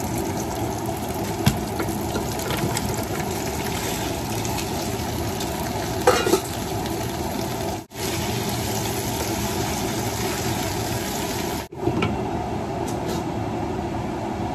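Shallots, peppers and then crayfish sizzling in oil in a pot while a wooden spoon stirs them, with a couple of short knocks of the spoon against the pot. The sizzling cuts out briefly twice.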